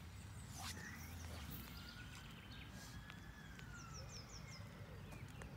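Faint songbirds: short runs of four or five quick, high, downward chirps, repeated a few times, with a few thin gliding whistles, over a low steady rumble.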